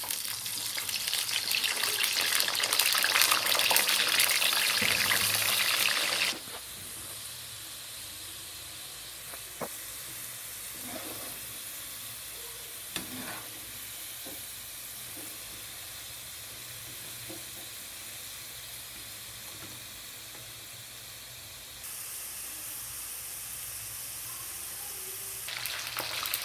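Cut potato sticks dropped into hot oil, setting off a loud frying sizzle for the first six seconds. Then a quieter steady sizzle of fries deep-frying in the pan, with a few knocks of a spatula stirring them. Near the end the sizzle grows louder as green chillies fry in the oil.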